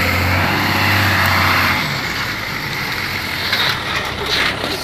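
Mitsubishi Fuso truck's diesel engine running hard with a strong low drone, easing off about two seconds in and carrying on at a lower, rougher level.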